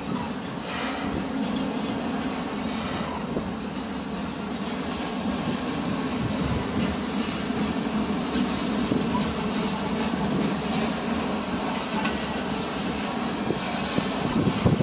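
Freight train rolling past: a steady rumble of cars on the rails, with a few faint, short high wheel squeaks.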